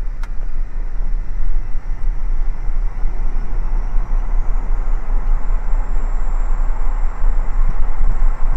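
Cockpit noise of a Cessna Citation 550 business jet on its landing rollout with thrust reversers deployed: a steady loud rumble of the turbofan engines and the tyres on the runway, with a faint whine rising slowly.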